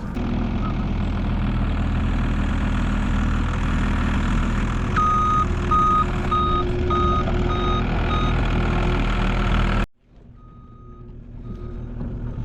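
A truck's engine running steadily, with its reversing beeper starting about halfway through at roughly two beeps a second: the vehicle is backing up. Near the end the sound cuts off abruptly and returns fainter, the beeping still going.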